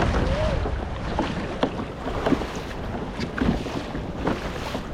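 Wind buffeting the microphone and water splashing against a kayak hull as it moves out through ocean chop, with scattered small splashes and knocks. A faint distant shout sounds just after the start.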